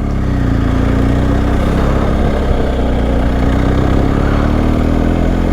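BMW R1250 adventure motorcycle's boxer-twin engine running steadily under way, with a rush of wind and road noise over it.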